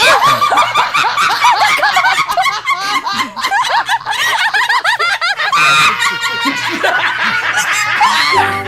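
Rapid high-pitched laughter made of many short rising-and-falling squeals. From about five seconds in it gives way to steadier held tones.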